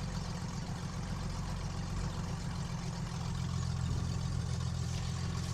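KR2 homebuilt light aircraft's piston engine idling steadily.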